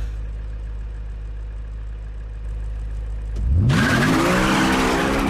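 A low steady rumble, then about three and a half seconds in a car engine revs hard, its pitch sweeping up quickly and holding high as the car accelerates away.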